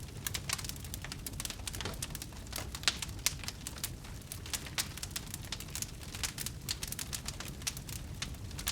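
Wood fire burning, crackling with many sharp irregular pops over a low steady rumble.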